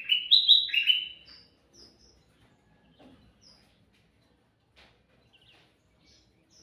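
Kutilang mas bulbul singing: a loud burst of quick, gliding notes in the first second, followed by scattered faint high chirps.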